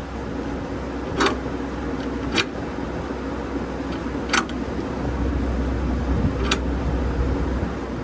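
A steady low machine hum with four sharp knocks, about 1, 2.5, 4.5 and 6.5 seconds in, typical of metal being struck during fabrication work.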